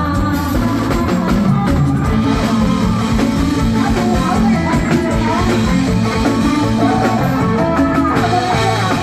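Live Thai band music played through a PA system, with drums, bass and melodic instruments and some singing.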